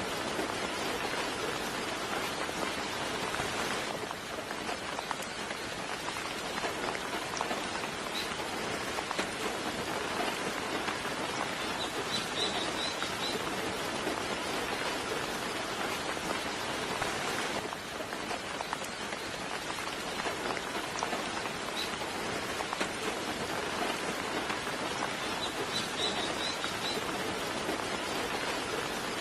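Soft, steady rain falling, with short high bird chirps twice, about halfway through and near the end.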